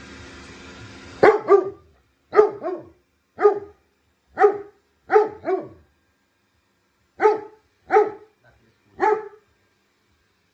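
A dog barking about eleven times, some barks in quick pairs, with gaps of silence between. A steady hum stops abruptly just before the first bark.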